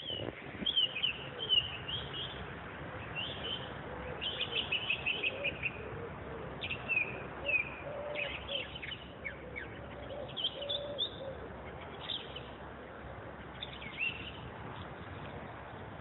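Songbirds singing, many short high chirps and trills coming in quick bursts, with a lower wavering call underneath, over a steady rush of background noise.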